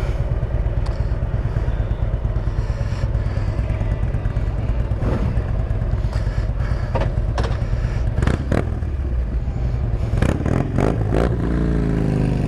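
Harley-Davidson Road Glide's V-twin engine running steadily on the move, with a few sharp clattering knocks, the loudest cluster about ten seconds in, and a brief rise in pitch near the end.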